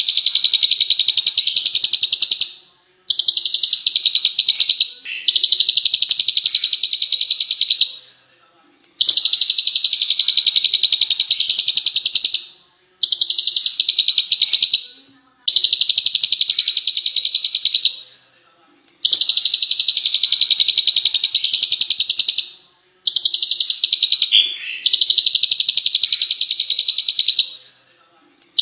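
Bird song played as a 'masteran' tutor recording for cage songbirds: a high, fast, buzzing trill repeated in phrases of a few seconds each with short breaks between.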